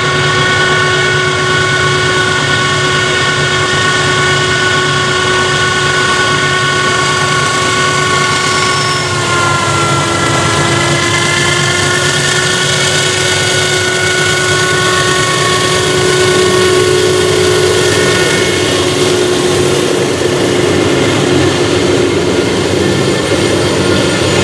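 Freight train led by a GE D9-44CW Dash 9 diesel locomotive, running with a loud, steady whine like a vacuum cleaner over a low engine rumble. The whine's pitch dips briefly about ten seconds in.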